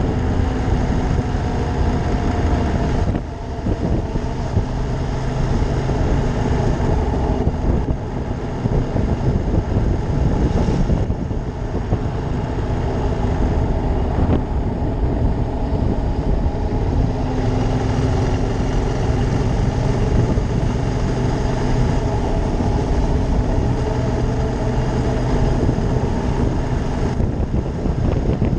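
Ducati Monster 620's air-cooled L-twin engine running under way, its pitch slowly rising and falling with the throttle. It dips briefly several times, about three, eight, eleven, fourteen and twenty-seven seconds in, as at gear changes or the throttle closing.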